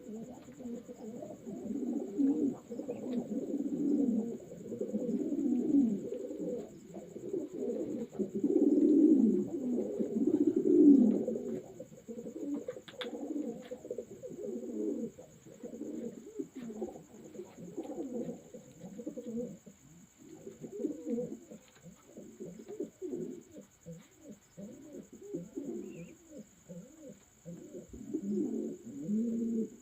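Racing pigeons cooing, many low overlapping coos one over another, with a faint steady high whine beneath them.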